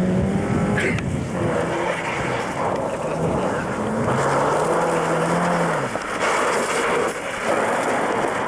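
Opel Manta's engine revving hard, its pitch climbing and dropping back several times as the car is slid around on loose gravel, with the hiss of tyres scrabbling and stones spraying.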